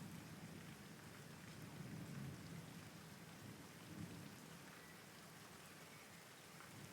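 Steady, soft rain falling, with a low rumble underneath that swells and fades a few times.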